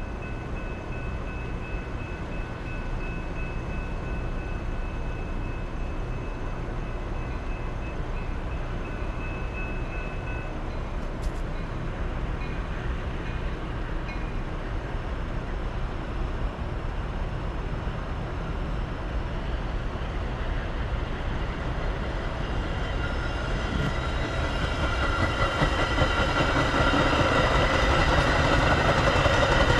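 Inbound Metra commuter train on the BNSF line running toward the station. It is a steady low rumble that grows louder about two-thirds of the way through, with several high, steady tones joining in near the end.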